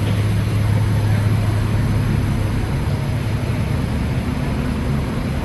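Truck driving at steady speed: a loud, steady low engine drone with road noise.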